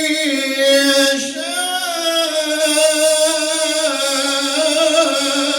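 Male Quran reciter's voice holding one long melodic vowel in chanted tajweed recitation, the pitch wavering in slow ornamental turns without a break.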